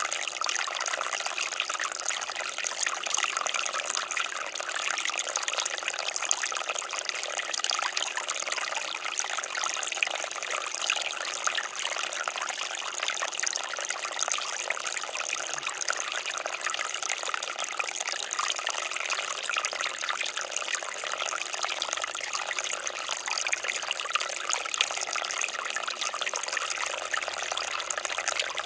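Water fountain running steadily, an even, unbroken splash and trickle of falling water.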